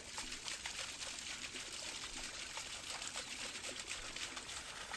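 Water trickling and splashing steadily, with many small drips and ticks: the water flow that drives a home-built automatic rotisserie.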